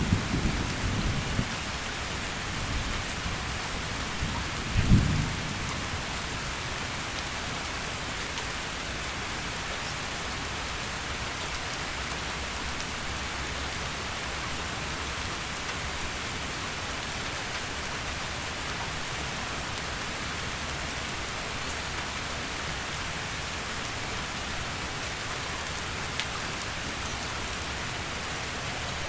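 Heavy rain falling steadily. The last of a low thunder rumble fades in the first second or so, and a brief low rumble of thunder follows about five seconds in.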